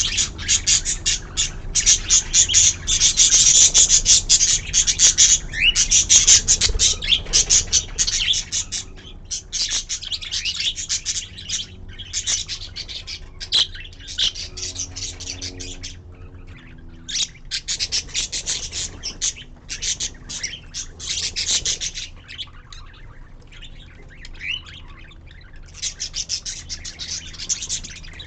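Budgerigars chattering and squawking in rapid, high-pitched bursts, densest and loudest over the first third, then coming in thinner spells with short quieter gaps.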